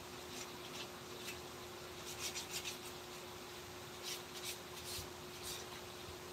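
Short, soft rubbing strokes on wood, coming in small clusters, over a faint steady hum.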